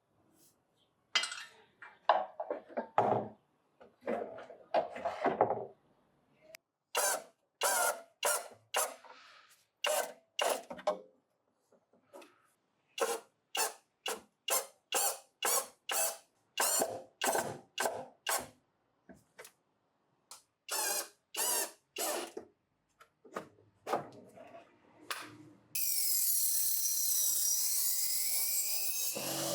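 A hand tool working wood in short back-and-forth strokes, about two a second, in several runs with pauses between. Near the end a steady, continuous sound with sweeping tones starts.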